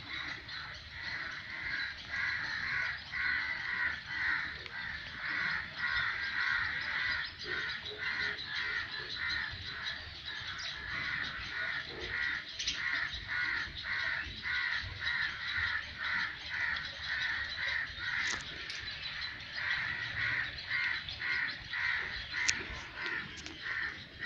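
A bird calling over and over in short, harsh calls, about two a second without let-up: a hungry bird begging for food.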